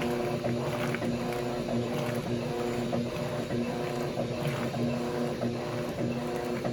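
Electrolux washing machine running, its motor giving a steady hum that swells and fades in a loose rhythm over the sloshing of the wash.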